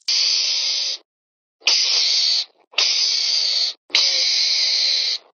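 An animal hissing: four loud hisses, each about a second long, with short breaks between them.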